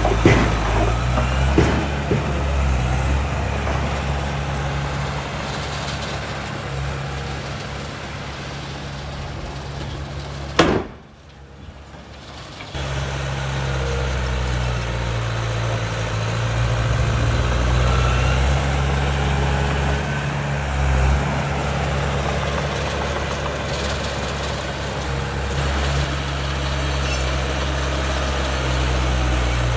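Heavy diesel engine running steadily with a low drone. About ten and a half seconds in there is one sharp knock, the engine sound drops away for about two seconds, then the drone resumes.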